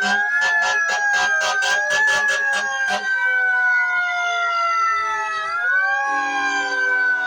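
Several fire truck sirens wailing at once, their tones slowly rising and falling at different pitches. A rapid pulsing sound of about four beats a second runs under them for the first three seconds, and a steady lower tone joins about six seconds in.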